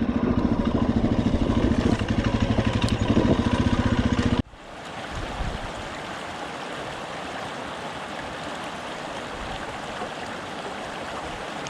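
Dirt bike engine running steadily at low revs for about four seconds, then cut off abruptly. A steady rushing noise follows, quieter than the engine.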